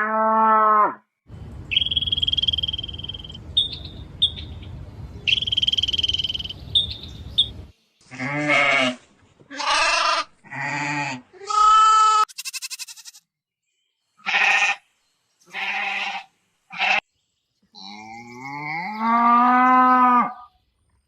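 Livestock bleating: a series of separate calls, one about a second long at the start, several short ones in the middle and a longer one near the end. Between about two and seven seconds in comes a different sound, a steady high tone over a low rumble.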